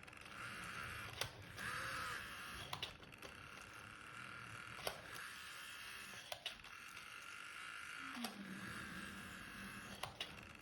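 Small electric motor of a Graham Farish N gauge Class 66 model diesel locomotive whirring steadily as it runs along the track, with scattered sharp clicks. The motor is noisy, not the most silent, and makes a funny noise.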